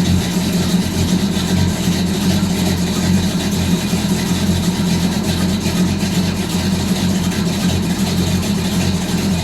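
1970 Dodge Coronet 500's engine idling steadily shortly after a cold start.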